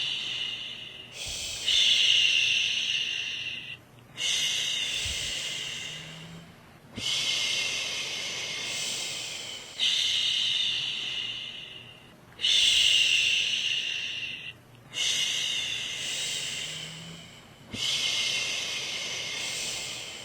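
A woman's voice shushing a baby to sleep: a long "shhh" repeated over and over, about one every two to three seconds. Each starts sharply and trails off.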